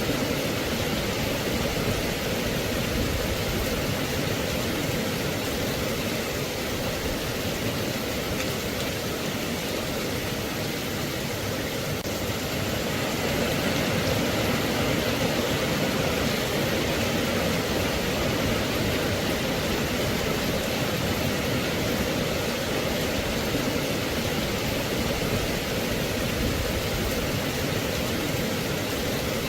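Steady rain, an even hiss with no separate drops or drips standing out, growing slightly louder and brighter about thirteen seconds in.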